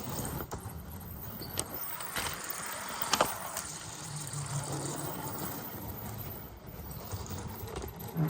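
Small electric motor of a building-block toy train running, a steady low hum, with a few sharp clicks and rattles.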